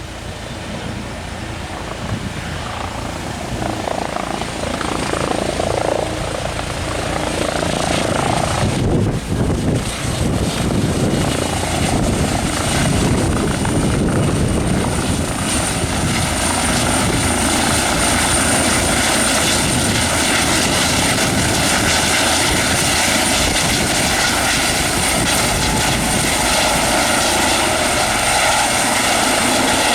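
Twin-turbine helicopter growing louder over the first dozen seconds as it draws closer, then running steadily close by with a high, steady turbine whine over the rotor noise.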